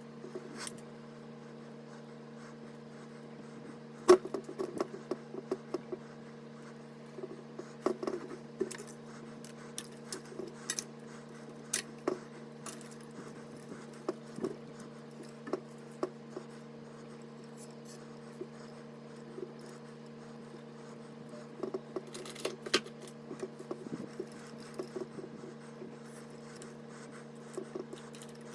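Irregular clicks, taps and light scrapes of small hardware being handled by hand, the loudest a sharp click about four seconds in, over a steady low hum.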